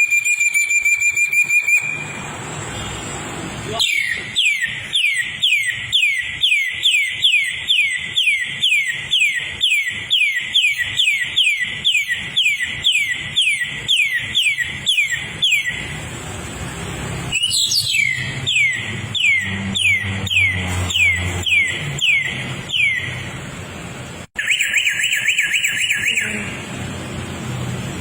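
Bird song: a long series of loud, clear whistled notes, each falling in pitch, about two a second, broken off once and resumed, then a short fast trill near the end.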